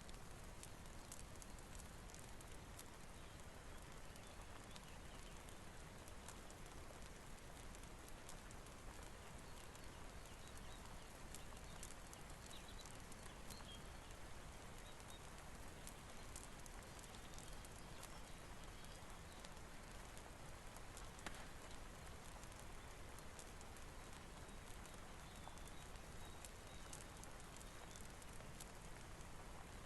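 Faint steady rain mixed with a crackling fireplace: an even hiss with scattered small clicks and pops throughout.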